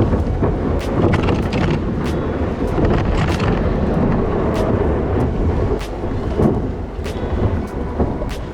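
Loud, steady low rumble of wind buffeting the camera's microphone, with scattered sharp clicks.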